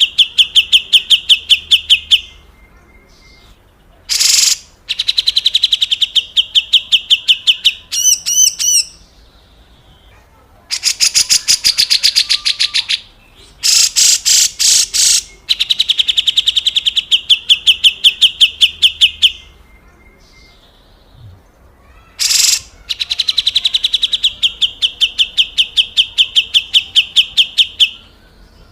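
Grey-cheeked bulbul (cucak jenggot) giving its harsh rasping 'besetan kasar' call: repeated bouts of a fast, even rattle of about five rough notes a second, each bout two to four seconds long, broken by a few short, harsher single notes.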